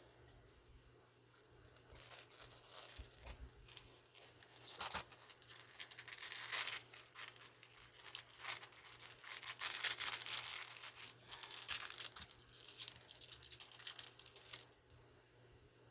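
Paper or plastic packaging being torn and crinkled by hand: a run of rustling and tearing that starts about two seconds in, swells through the middle and stops near the end.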